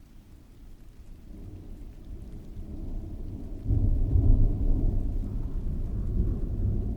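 A roll of thunder over steady rain: a low rumble that swells gradually, then grows sharply louder about four seconds in and keeps rolling.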